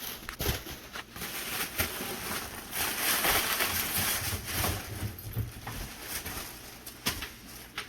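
Packaging being handled and rustled during an unboxing, with a few sharp clicks and knocks and a stretch of louder rustling in the middle.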